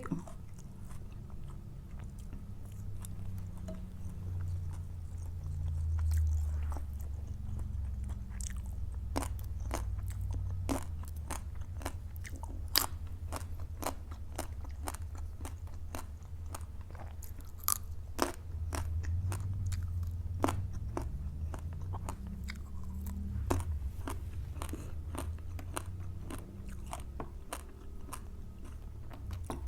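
Close-up eating sounds: steady chewing with many sharp, irregular crunches and clicks from the mouth, over a low rumble of jaw movement.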